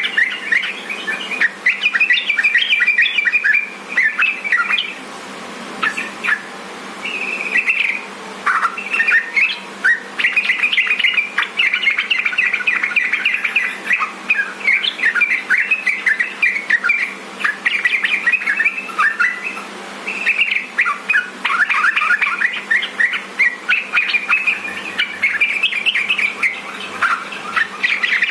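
Yellow-vented bulbul (trucukan) singing a fast, busy run of chirping phrases, with short pauses about five seconds in and again about twenty seconds in.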